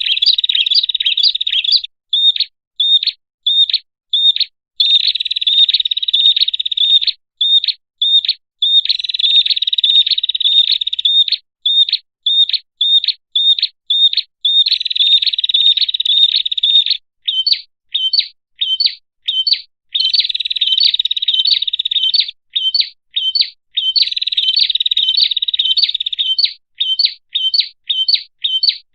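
Prinia (prenjak) calls played as a bird-lure recording. Sharp, high chirps come at about two to three a second and alternate with rapid trilled runs, each lasting two to three seconds.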